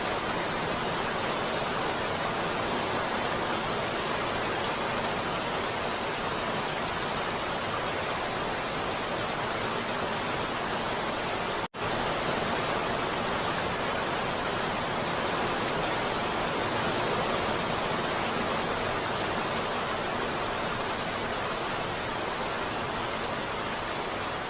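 Heavy rain falling in a steady, dense hiss, with a momentary cut-out about halfway through.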